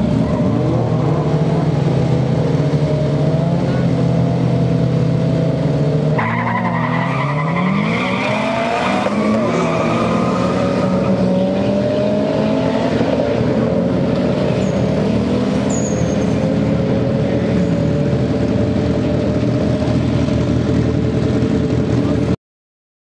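Drag-racing cars, a Proton Satria and a Proton Wira, hold their engines at steady revs on the start line. About six seconds in they launch, and the engine pitch climbs and drops several times through the gear changes as they accelerate away. Engine noise then runs on with a slowly rising tone until the sound cuts off suddenly near the end.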